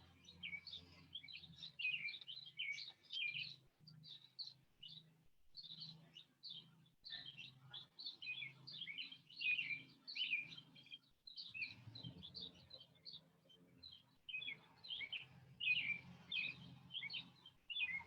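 Wild birds chirping and singing, many short quick notes in a steady chorus with brief pauses.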